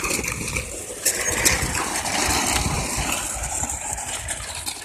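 Small engine running, with wind buffeting the microphone as an uneven rumble and a few scattered clicks.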